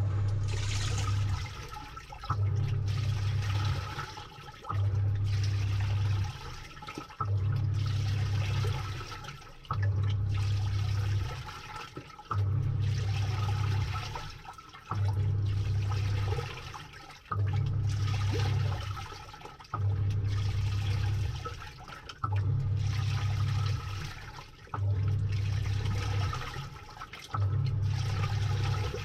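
Samsung 6.5 kg top-load washing machine agitating, heard from inside the drum: the pulsator motor hums in pulses about every two and a half seconds, churning water and laundry, with the swirl of water dying away between strokes. The agitation starts suddenly at the very beginning, out of quiet.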